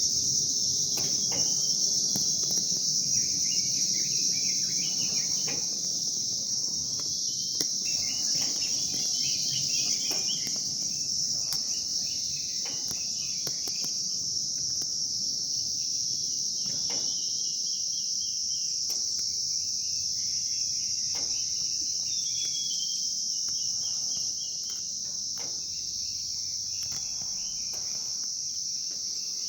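Steady, unbroken high-pitched insect trill, with small birds chirping in short scattered bursts over it.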